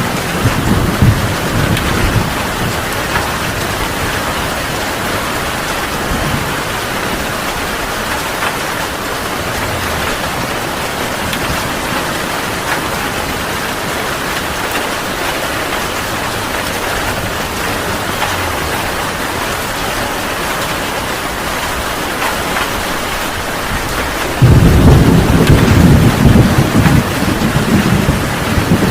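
Heavy rain pouring steadily, with thunder rumbling away at the start. Near the end a sudden loud clap of thunder breaks in and rumbles on.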